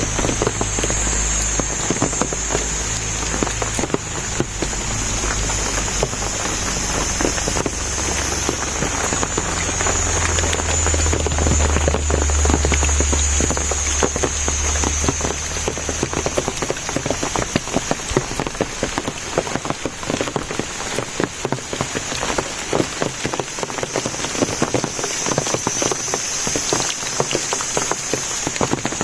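Steady rain, dense drops pattering on surfaces throughout. A steady high-pitched whine sits above it, and a low rumble underneath fades out about halfway through.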